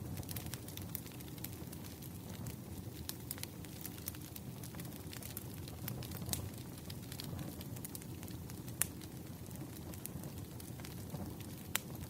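Crackling wood fire: irregular sharp pops and snaps over a low, steady rumble, with one louder pop about nine seconds in.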